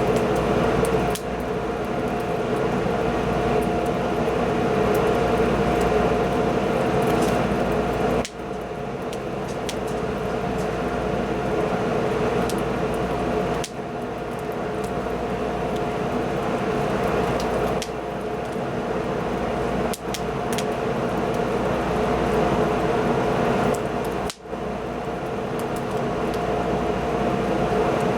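Wood fire burning: a steady rushing noise with occasional small crackles, broken by three brief dropouts.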